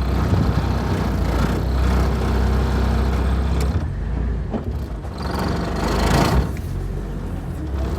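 2000 Jeep Wrangler engine running as the Jeep moves off, with a steady low rumble and a louder swell about six seconds in. The idle is relearning after a vacuum leak was fixed and tends to surge.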